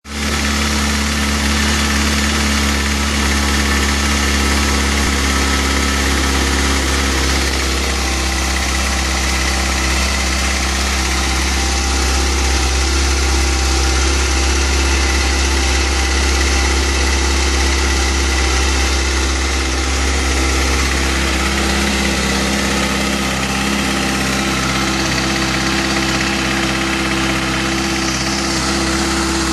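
2013 Kawasaki Ninja ZX-6R's 636 cc inline-four engine idling steadily with a pretty loud ticking noise that worries its owner.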